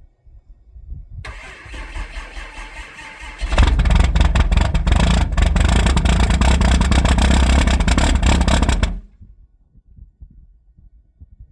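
A 6.7 Cummins inline-six turbodiesel cold-starting: the starter cranks for about two seconds, then the engine catches and runs loud and rough. About nine seconds in the sound cuts off suddenly.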